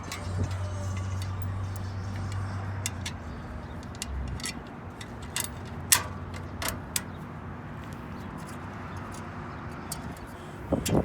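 A low steady hum that stops about three seconds in, with scattered sharp clicks and taps of hand work throughout.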